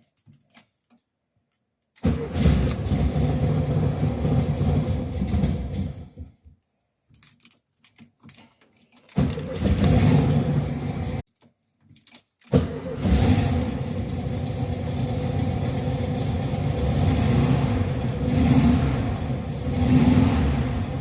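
Air-cooled Volkswagen Beetle flat-four engine on a cold start. It fires about two seconds in and runs for a few seconds before dying, then catches again and cuts out after about two seconds. On the third try it starts and keeps running, with a few rises in revs near the end. Faint clicks come in the gaps between attempts.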